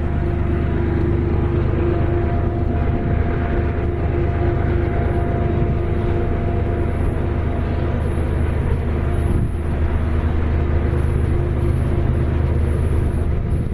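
Diesel freight locomotives running, a loud, steady low drone with a constant engine hum.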